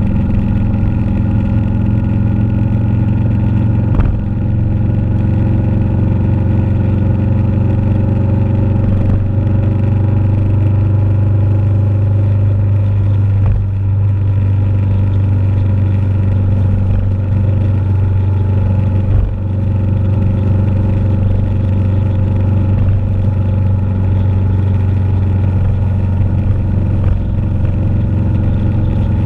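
Motorcycle engine running at a steady, even pitch while riding along, with a few brief dips in level.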